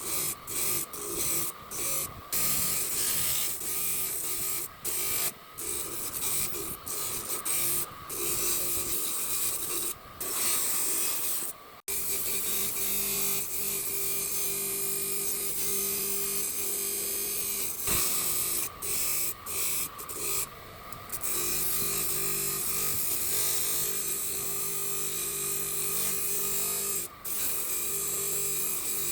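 Abrasive scraping on an old rusted steel file as rust and surface are worked off. For the first part it comes in hissing strokes with short breaks between them. After a sudden break it turns steadier, with a low hum under it.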